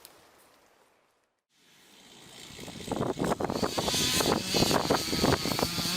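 The sound fades out to near silence, then an engine-like mechanical noise fades in about two seconds in and grows loud, with many irregular crackling clicks running through it.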